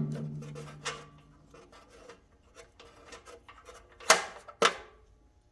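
Hand tools clicking and clinking on a garden tractor engine as the spark plug is taken out, with a low ring dying away in the first second and two sharp metallic knocks near the end.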